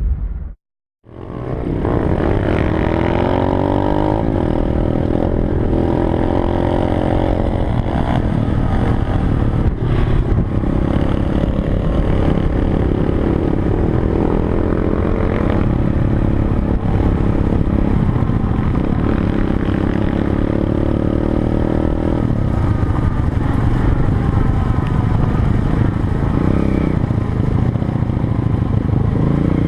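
Small pit bike engine running under load as the bike is ridden, its pitch rising and falling as the throttle is opened and closed. The sound drops out completely for a moment about half a second in, then the engine comes back.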